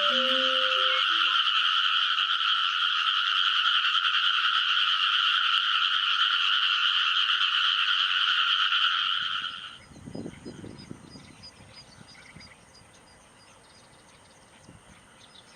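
Dense chorus of many Japanese wrinkled frogs calling together, a steady unbroken wall of calls. It cuts off abruptly about nine and a half seconds in, leaving only faint low rumbling.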